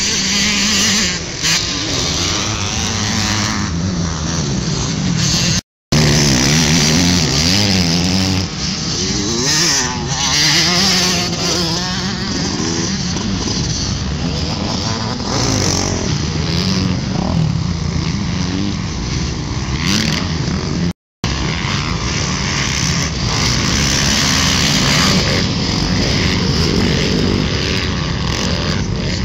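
Motocross dirt bike engines revving hard, their pitch rising and falling again and again through gear changes and throttle on and off. The sound drops out twice for an instant, about six seconds in and again near twenty-one seconds.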